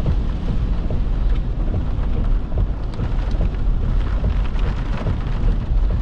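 Rain and wind against a vehicle in a severe thunderstorm: a steady low rumble with many scattered taps of drops.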